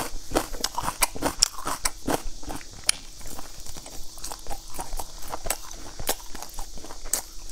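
Close-miked eating: chewing of raw red onion and pan-fried flatbread, with irregular wet mouth clicks, smacks and crunches.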